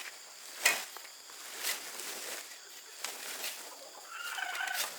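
A chicken calling briefly near the end, among a few scattered sharp taps, the loudest about a second in.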